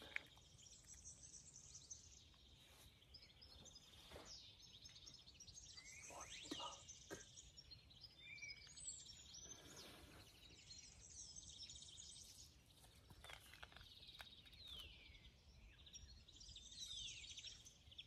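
Faint birdsong from several songbirds: repeated chirps, trills and short gliding whistled notes, with a few soft knocks.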